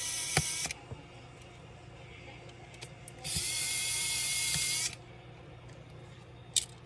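Small electric screwdriver running in two short bursts of about a second and a half each, with a couple of sharp clicks between them.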